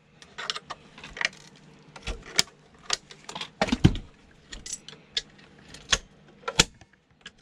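Irregular metallic clicks and knocks from a sewing machine being dismantled by hand, as a part is worked at and resists coming off; one heavier knock comes about four seconds in.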